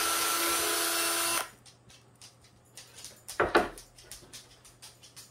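A cordless screw gun driving a screw into a pine board, a steady whir that stops about a second and a half in. About two seconds later comes a single loud knock, followed by light clicks of handling.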